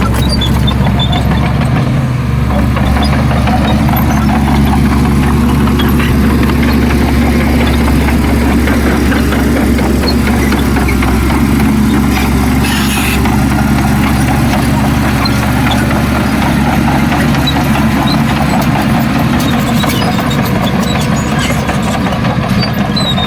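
Heavy diesel engine of earthmoving machinery running steadily under load, with a short hiss about halfway through.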